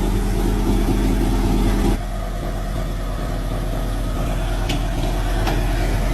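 Old vehicle's engine running steadily just after being brought back to life from years of sitting; about two seconds in its note drops and it carries on running more quietly.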